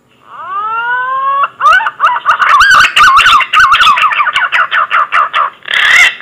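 Punai (green pigeon) call used as a hunting lure: a long rising whistle, then a fast run of wavering, warbling whistled notes. A louder, rougher note comes near the end.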